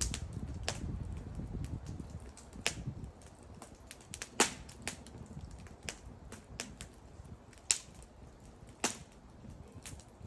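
Wood bonfire crackling: irregular sharp pops and snaps, the loudest about four and a half seconds in and twice more near the end, over a low rumble that dies down after the first couple of seconds.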